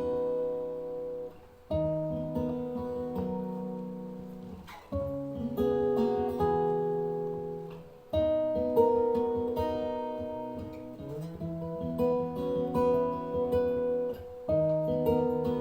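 Acoustic guitar playing an instrumental passage, a chord struck and left to ring every two to four seconds.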